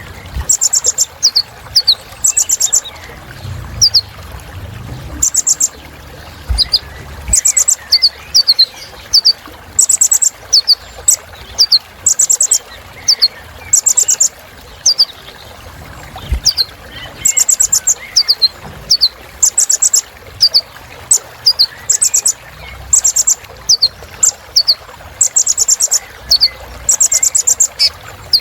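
Brown-throated sunbird (kolibri ninja) singing: short, very high rattling trills in quick succession, mixed with brief falling notes.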